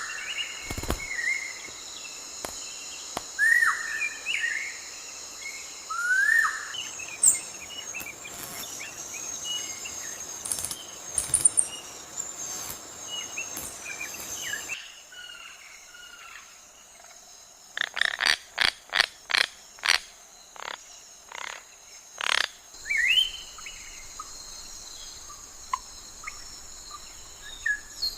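Forest ambience: birds giving short rising chirps and calls over a steady high insect drone, with a quick run of sharp knocks a little past the middle.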